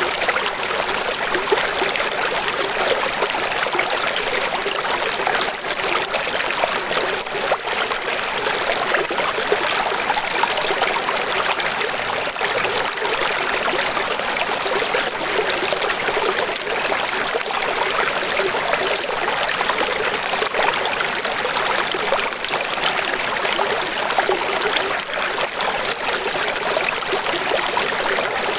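Running water rushing steadily and evenly, a bright hiss with little low rumble.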